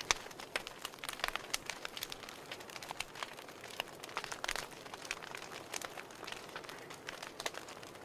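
Fire crackling: irregular sharp pops and snaps, several a second, over a soft steady hiss.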